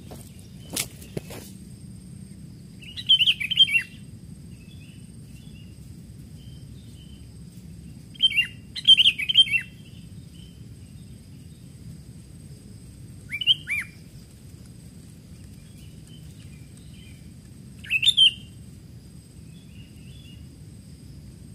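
Sooty-headed bulbul (kutilang) calls: four short bouts of bubbly chirping phrases a few seconds apart, the longest about 9 seconds in. Two sharp clicks come about a second in, and a faint steady high whine runs underneath.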